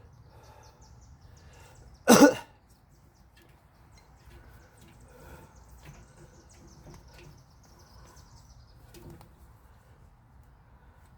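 A single short cough about two seconds in, with faint bird chirps in the background.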